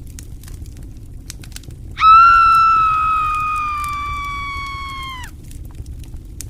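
A loud, high, drawn-out scream about two seconds in, held for about three seconds, sinking slightly in pitch and then cutting off abruptly. It sounds over the steady crackle of a campfire.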